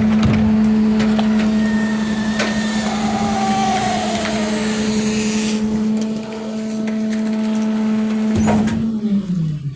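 Garbage truck engine held at raised revs, as when the packer hydraulics are working, with scattered clanks and a brief squeal; near the end the revs fall away toward idle.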